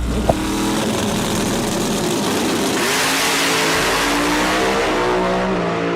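A car engine running and revving, its pitch sliding up and down, with a sharp click just after the start.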